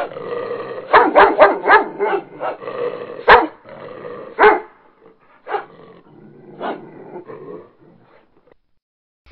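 A dog barking: a quick run of barks about a second in, then single barks at longer gaps, growing fainter toward the end.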